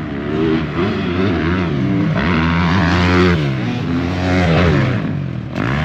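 Motocross dirt bike engine revving on the track, its pitch climbing and dropping several times as the throttle is worked and gears change.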